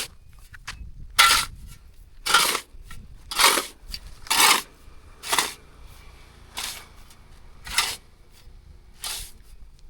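Rhythmic scraping or rasping strokes of a hand tool on a hard material, evenly spaced at about one a second.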